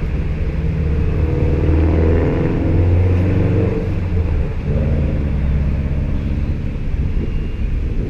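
Motor vehicle engine running close by in road traffic, a low steady hum that shifts in pitch about halfway through.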